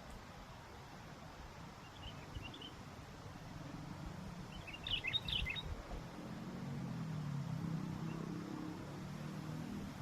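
Short chirping calls of a sooty-headed bulbul (kutilang): a faint few about two seconds in, then a brighter burst of quick chirps around the middle, over low wind rumble. A low steady drone rises in the second half.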